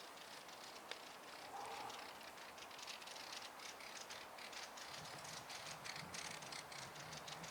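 Faint, irregular crackling and clicking, many small sharp ticks, with a faint low hum coming in about five seconds in.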